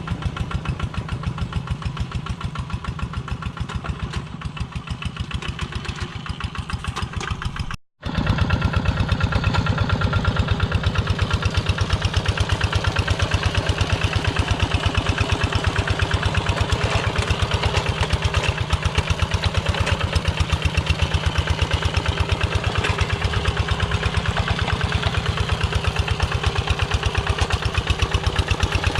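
Single-cylinder diesel engine of a Kubota Quick G1000 two-wheel walking tractor running steadily with rapid, even firing pulses. It cuts out for a split second about eight seconds in, then comes back louder.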